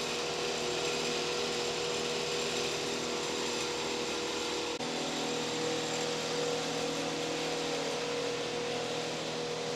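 Steady background machine hum with a faint steady whine, even in level.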